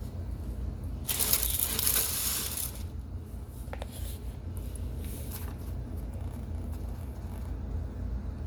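A soft, still-warm chunk of baked cornstarch and baby powder being crushed, a grainy crunching burst about a second in, followed by a few faint crackles.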